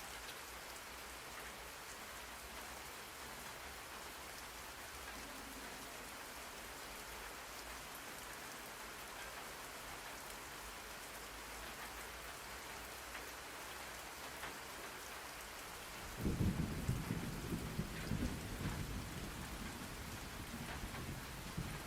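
Steady rain falling, with a low rumble of thunder coming in suddenly about three-quarters of the way through and slowly dying away.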